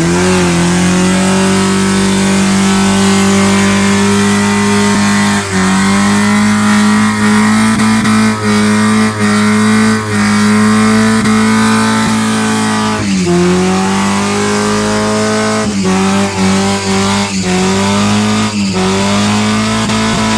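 Vehicle engine held at high revs for a burnout, steady apart from brief drops in revs, once about five seconds in and several times in the second half, over the hiss of a spinning tyre.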